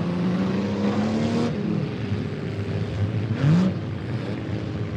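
Engines of demolition derby minivans, mini trucks and SUVs revving over a steady engine drone. One engine climbs in pitch over the first second and a half, and another revs up sharply about three and a half seconds in.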